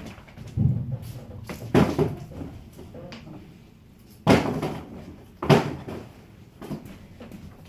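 A series of about six knocks and bangs as items are handled and set down while a moving truck is cleared out, the two loudest a little after four and five and a half seconds in.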